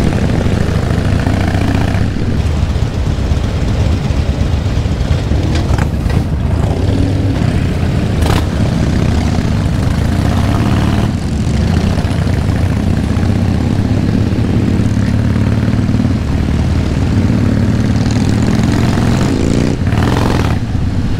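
Harley-Davidson V-twin motorcycle engine running steadily while riding, heard from the bike itself, amid the other motorcycles of a group ride.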